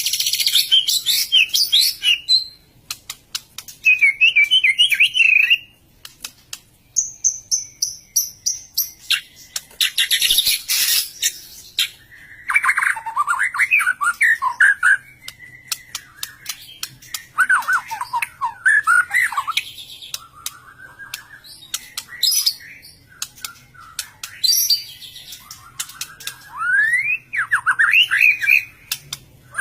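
White-rumped shama (murai batu) singing in full, a varied run of short phrases of quick whistled notes and trills mixed with harsh high chatter and sharp clicks, with brief pauses between phrases.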